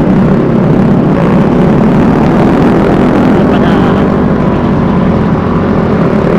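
Steady, loud wind and road rush on the rider's microphone while riding a Vespa S 125 scooter, with the scooter's running underneath.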